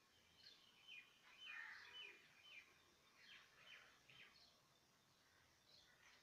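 Faint bird chirps over quiet outdoor background: a run of short, high notes, most of them in the first four seconds, with a couple more near the end.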